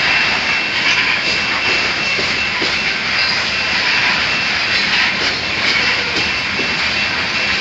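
Loaded coal hopper cars of a freight train rolling past, steel wheels running on the rails in a steady, even rumble and hiss. A thin high tone runs through it.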